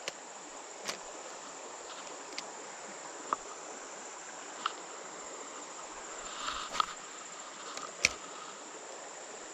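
Insects trilling steadily on one high, even note, with a few scattered small clicks and taps over it.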